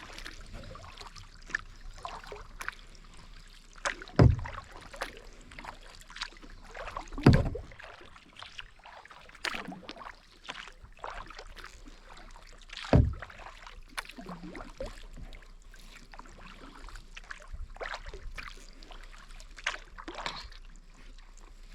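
Kayak paddling: a paddle dipping and splashing with water dripping, and three loud hollow thumps on the boat about 4, 7 and 13 seconds in.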